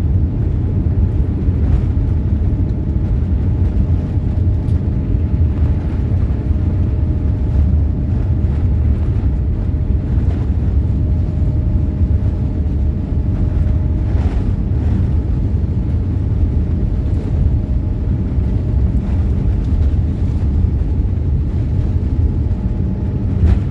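Boeing 787-8 Dreamliner cabin during the takeoff roll: a loud, steady low rumble of the engines at takeoff power and the wheels on the runway, with a faint steady whine and a few light knocks.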